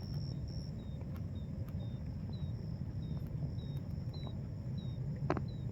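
Outdoor ambience: a steady low rumble under a series of short high chirps repeating about twice a second, with one sharp click near the end.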